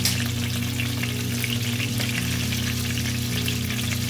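Pork chops frying in hot oil and butter in a skillet: a steady sizzle with frequent small crackling pops of spattering oil.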